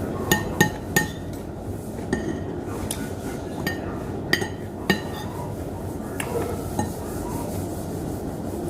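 Cutlery clinking against a plate or bowl while eating: a few sharp taps in the first second and a couple more about four to five seconds in, over a steady low background noise.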